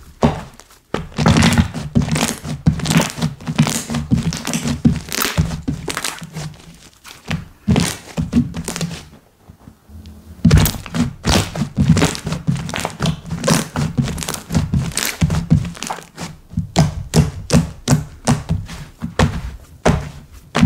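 Slime being pressed and squished by hand: a dense run of quick sticky clicks and pops over soft thuds, pausing briefly about nine seconds in.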